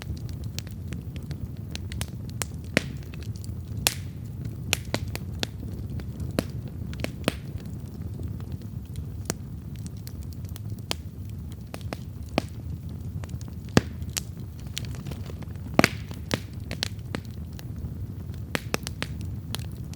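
Wood campfire crackling: irregular sharp pops and snaps over a steady low rumble of burning, with a few louder pops in the second half.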